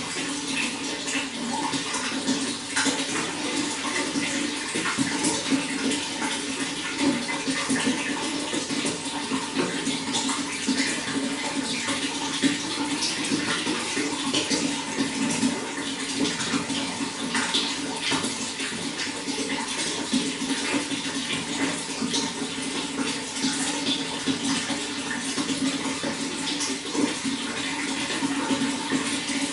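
Running water flowing steadily, with a constant patter of small splashes.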